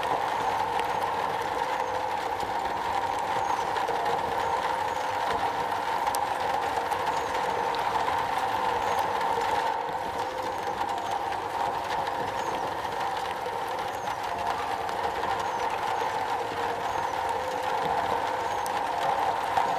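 Steady rain falling on a metal roof: a dense, even patter with scattered sharper drop ticks.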